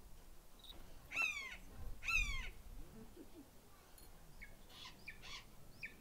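A bird calling: two loud, ringing cries about a second apart, each rising then falling in pitch, followed by several softer short calls.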